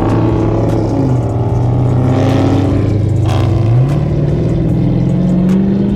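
Muscle car engine running with a steady low drone, then rising in pitch about four seconds in as the car accelerates and holding at the higher pitch.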